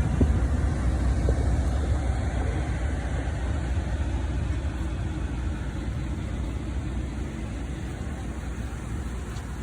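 Motor vehicle running with a steady low rumble that fades slowly.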